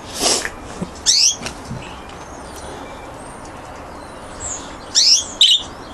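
Pet budgerigars (parakeets) chirping: a few short, sharp sweeping calls about a second in and a pair near the end, with faint high twitters in between.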